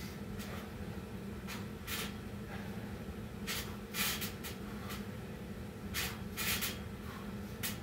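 A man breathing hard after burpees and pull-ups, with short rushing breaths about every second or so, some coming in quick pairs. A steady low hum runs underneath.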